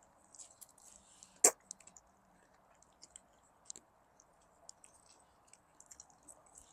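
Eating at the table: quiet chewing with scattered small clicks, and one sharp click about a second and a half in.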